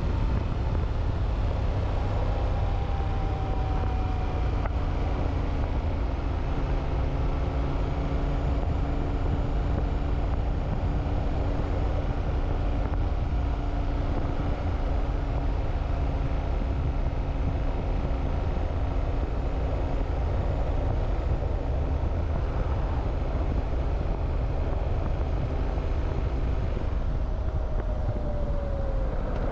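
Motorcycle engine running steadily under way, with a strong low rumble of engine and wind; its note falls near the end as the bike slows.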